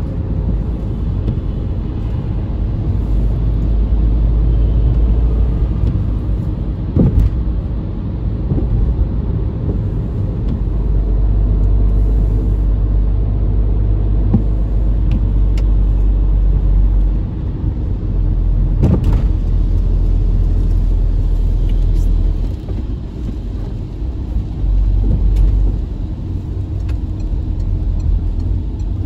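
Car on the move: a steady low rumble of engine and road noise, with a sharp knock about seven seconds in and another about nineteen seconds in.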